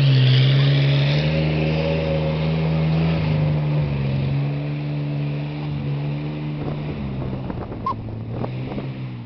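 Pickup truck engine held at high revs while churning through mud, its pitch stepping down and fading as it eases off, with a few light knocks near the end.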